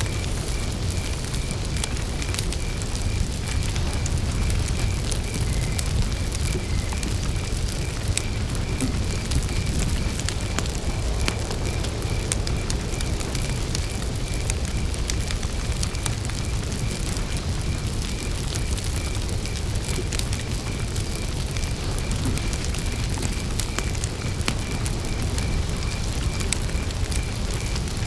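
Campfire burning with a steady low rumble and scattered crackles and pops. Over it, a cricket chirps in an even, pulsing rhythm.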